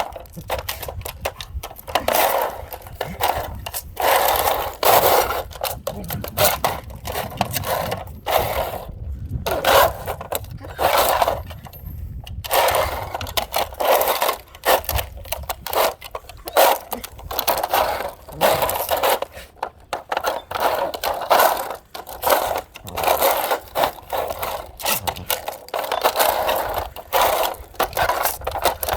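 A dog playing with a small cat toy: irregular bursts of scraping, clattering and rattling as the toy is batted, knocked and slid about, with short pauses between.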